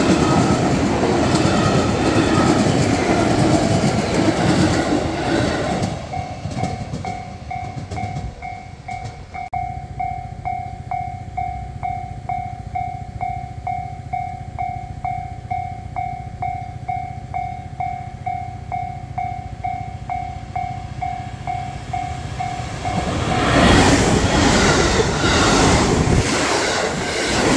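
A JR Fukuchiyama Line train runs loudly over the level crossing, then fades after about six seconds. That leaves the Japanese level crossing's electronic warning bell ringing on its own, a steady ding about twice a second. Near the end another train comes through loudly and drowns the bell out.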